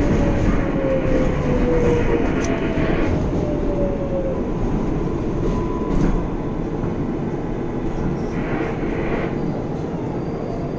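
New York City subway 7 train running, with the rumble and hiss of wheels on rail and a motor whine that falls slowly in pitch over the first few seconds as the train slows.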